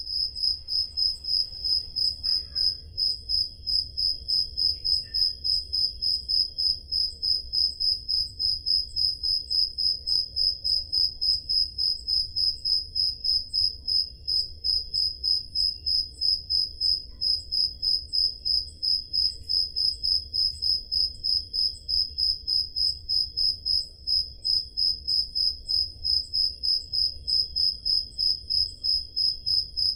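Crickets chirping: a steady run of even, high-pitched chirps a few times a second, with a fainter second insect trill a little lower in pitch behind it.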